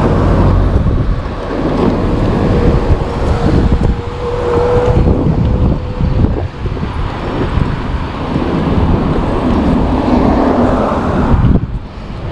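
Car driving along a road: engine and tyre rumble with wind noise on the microphone, and a steady whine for several seconds in the first half. The sound dips briefly near the end.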